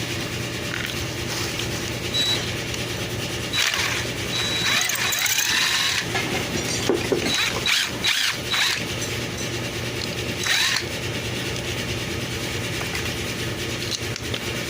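Hand-handling noises from an Echo SRM-225 string trimmer being dismantled: short squeaks and squeals from parts rubbing, with scattered clicks and knocks, over a steady low hum. The engine is not running.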